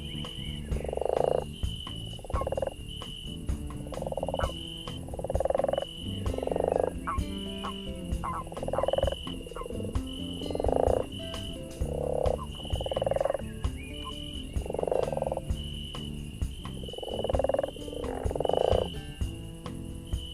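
Frogs croaking over and over, about one croak a second, with a high chirp repeating above them and the sharp crackle of a campfire.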